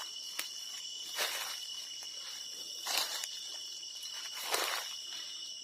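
Steady chorus of crickets and other insects, shrilling high and unbroken, with three soft rustles about a second and a half apart, like footsteps through dry leaves and undergrowth.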